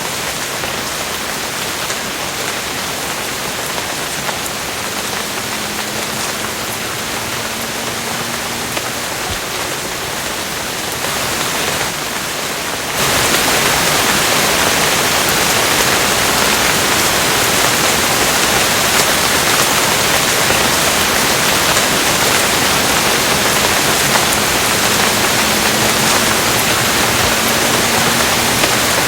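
Steady rain noise; about 13 seconds in it changes abruptly to a louder, fuller rushing sound that stays steady.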